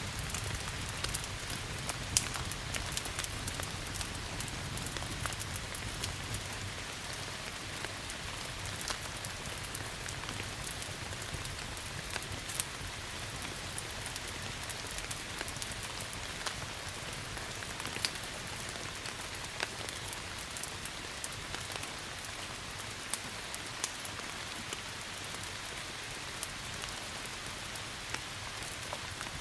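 Steady rain mixed with the scattered sharp pops of a crackling wood fire. A low rumble fades out over the first several seconds.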